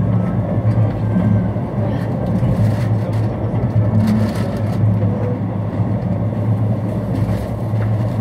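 Mugunghwa-ho passenger train running, heard from inside the coach: a steady low rumble and hum of the moving train.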